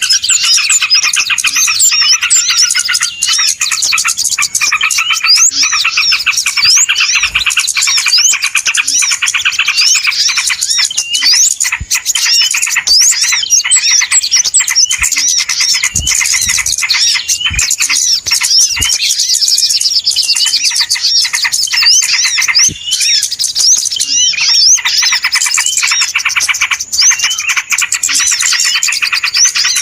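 Dense, noisy chorus of many small birds chirping and calling at once with quick rising and falling notes, a bird-lure (pikat) recording meant to draw birds in.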